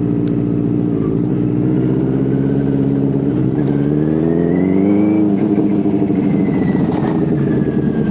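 Benelli TNT 600's inline-four engine running under way. The revs hold steady, climb from about three and a half seconds in, then drop back about five seconds in.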